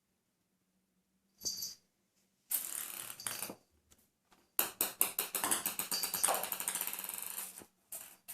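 Ping-pong ball being batted about by a cat: a brief scuffle, a longer clatter, then about three seconds of rapid clicking as the ball bounces and rattles.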